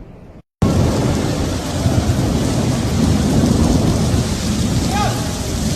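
Thunderstorm: heavy rain pouring down, with thunder. It starts abruptly after a brief dropout about half a second in, then stays loud and steady.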